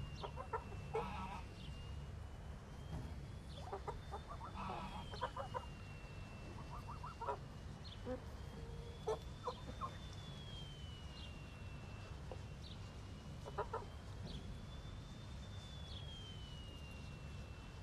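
Chickens clucking in short scattered calls, over a thin high whine that slowly wavers up and down in pitch and a steady low rumble.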